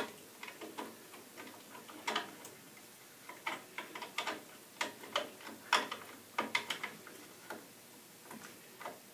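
Scattered light clicks and taps of hands fitting wire connectors back onto a gas valve, irregular and spaced out with no steady rhythm.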